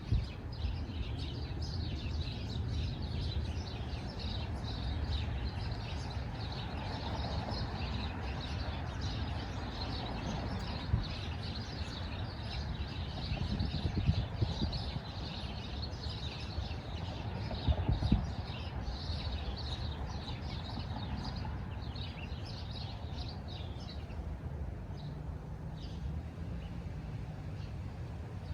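Small birds chirping busily in quick, overlapping calls over a steady low background rumble, with a few brief knocks; the chirping thins out near the end.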